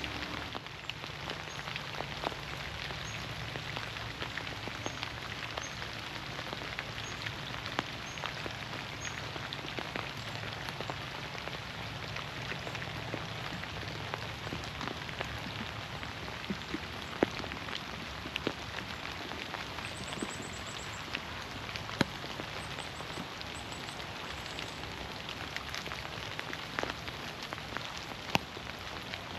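Steady rain falling through forest trees, many drops pattering on leaves, with a few single close drops ticking sharply.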